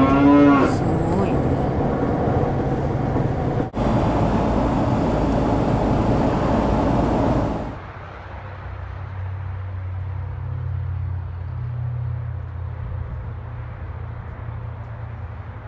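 Road noise from a moving car, a steady rush, with a short voice near the start. About eight seconds in it drops to a quieter, duller background with a steady low hum.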